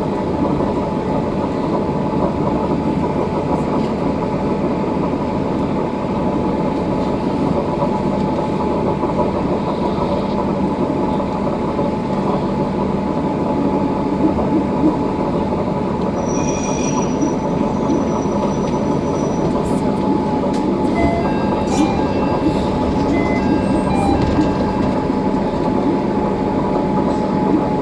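Inside the car of a Tobu Railway train running into a station and coming to a stop: a steady running noise with a constant electric hum. A brief high squeal comes about two-thirds of the way in, and short high tones sound near the end.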